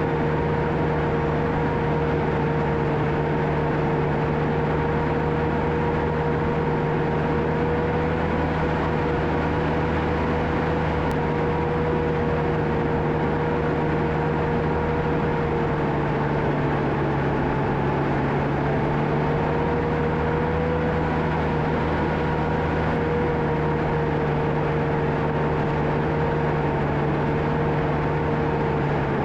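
John Deere 650K crawler dozer's diesel engine running steadily, with a constant whine over the engine note that sags slightly in pitch about halfway through and then recovers.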